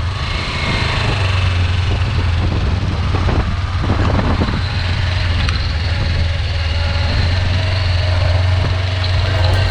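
Motorcycle engine running at a low, steady pace while riding slowly.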